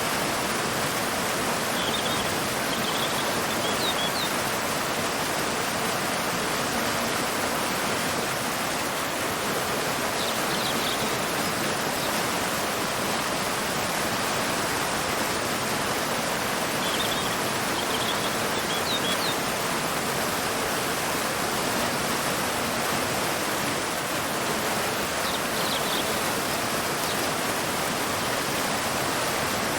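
Waterfall pouring into a river, a steady, even rush of water. Faint high bird chirps come in short clusters four times over it.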